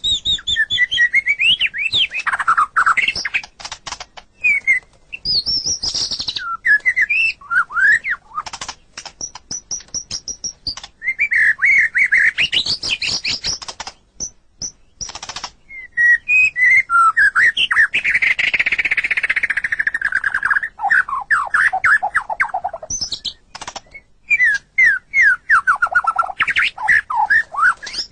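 White-rumped shama singing a long, varied song of whistled phrases, fast chattering trills and sharp clicking notes, in bursts with two short pauses.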